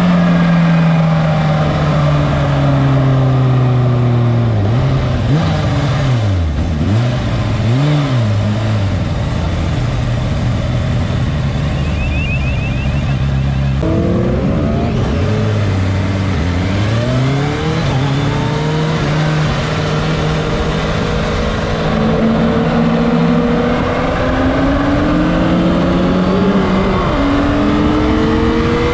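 Motorcycle engine ridden hard on a race track, heard from on board: the revs hold high, dip and flare sharply several times about five to nine seconds in as the rider brakes and downshifts, then climb in rising sweeps through the gears and hold steady at speed before rising again near the end.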